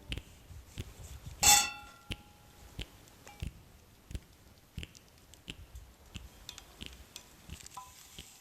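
Metal cookware struck once, a loud clang that rings briefly, about one and a half seconds in. Scattered light clicks and taps follow, with a faint ping near the end.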